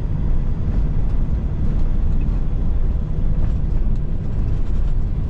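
Cat 3406E straight-six diesel of a Freightliner FLD120 semi truck running steadily under way, heard from inside the cab as an even low drone with road noise.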